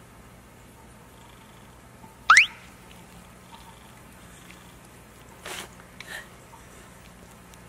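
A French bulldog waking and licking at a liquid treat, with two brief wet smacks of its mouth near the end. About two seconds in, a short, loud rising squeak stands out above everything else, over a faint steady hum.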